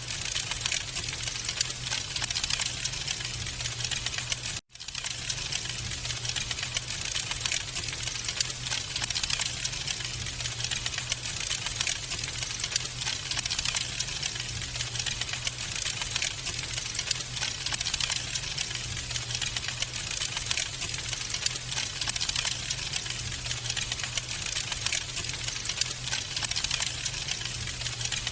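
Wood fire crackling in a fireplace: a dense run of small pops and snaps over a steady low rumble. The sound cuts out for an instant about four and a half seconds in.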